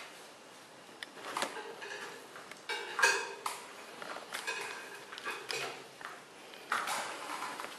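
Bullmastiff puppies scuffling and playing: a run of knocks, scrapes and clatters, with the loudest knock about three seconds in.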